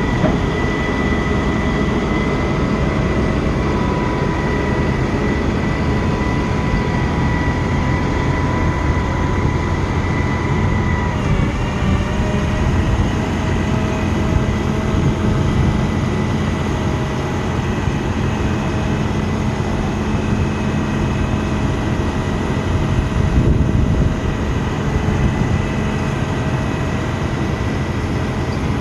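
A 2015 Ford F-750 bucket truck's engine running steadily while driving the hydraulics of its Altec AA55 aerial boom. A low rumble carries thin whining tones, which shift in pitch about eleven seconds in as the boom's movement changes.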